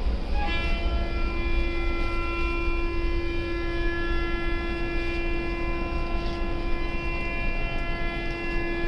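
Train horn sounding one long, steady blast, starting about half a second in, over the continuous low rumble of the train running.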